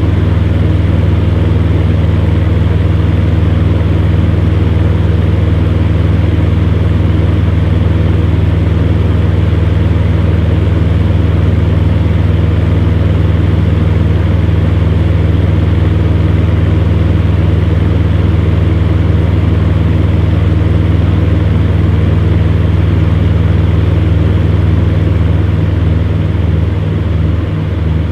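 Electric fan running steadily: a low motor hum under an even rush of air. Near the end the hum starts to waver in a slow pulse.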